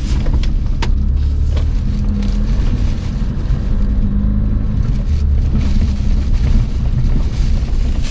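Car driving, heard from inside the cabin: a steady low rumble of engine and tyres with a steady hum, and a few sharp knocks in the first couple of seconds.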